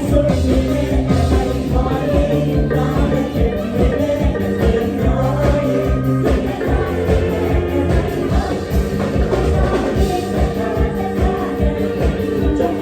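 Live Isan mor lam band playing a toei (เต้ย) song: a singer over a steady drum beat, with bass and sustained instrument lines.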